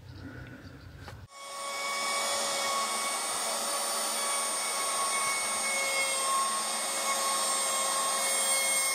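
A small electric power tool starts about a second in and runs at a steady, unchanging whine while opening the seam grooves in a teak deck board.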